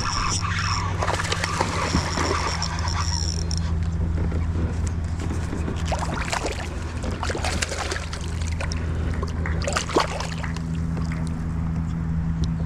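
Water sloshing and splashing against a kayak, with scattered knocks and clicks of handling, under a steady low hum.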